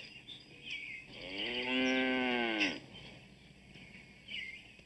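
A cow mooing once: one long call of about a second and a half that rises slightly and drops away at the end.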